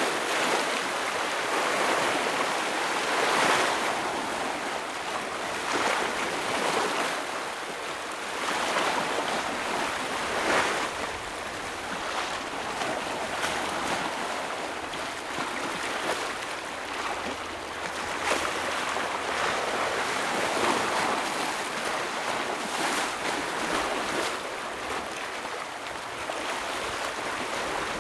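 Ocean waves breaking and washing over rocks, a continuous rush that swells every few seconds with sharper surges as each wave hits, with some wind on the microphone.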